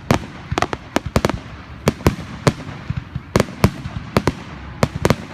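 Fireworks finale: a rapid, irregular string of sharp bangs, several a second and sometimes in quick clusters, over a continuous background rumble.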